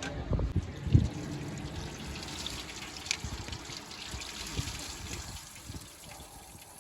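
Liquid trickling and pouring, with a few dull knocks in the first second.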